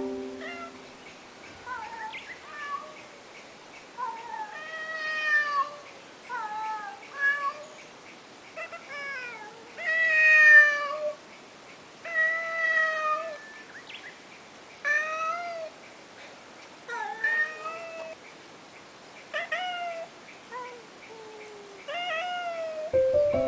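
A cat meowing over and over, about one call every second or two, each call bending up and then down in pitch.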